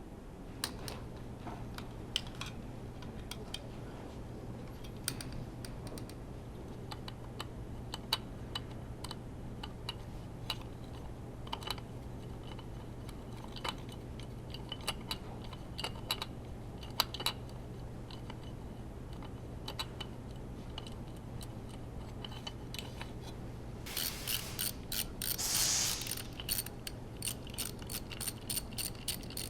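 Hand tools at work on an engine being taken apart: scattered sharp metallic clicks and taps. Near the end comes a fast run of ratchet-wrench clicks with a brief rushing noise. A steady low hum lies underneath.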